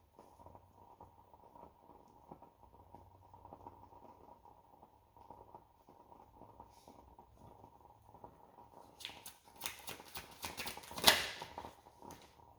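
Reading cards being handled: faint soft clicks and rustling, then a quick run of louder card flicks and snaps starting about nine seconds in, with one sharp snap about two seconds later.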